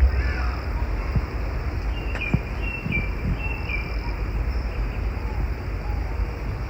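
Outdoor woodland ambience: a bird gives a run of short, falling chirps about two to three and a half seconds in, over a steady low rumble and a faint high insect-like hiss. A single sharp click about two seconds in.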